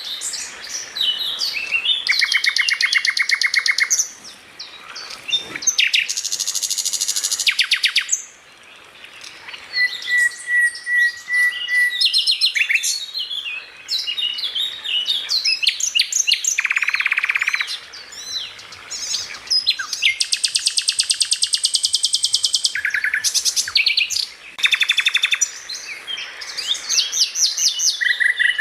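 Songbird singing a fast, varied song of buzzy rapid trills, sharp chirps and whistled notes, phrase after phrase with brief pauses. This is a masteran recording of the kind used to tutor caged songbirds.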